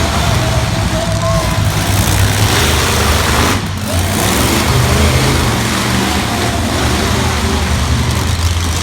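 Monster truck engine running loudly with a steady, heavy low drone that drops briefly about three and a half seconds in.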